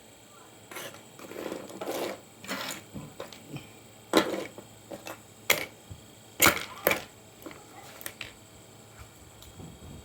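Irregular clicks and knocks of hard objects being handled, sharpest about four, five and a half and six and a half seconds in.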